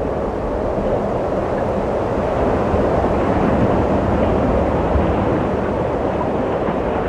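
Wind blowing in a steady low rush, swelling a little in the middle.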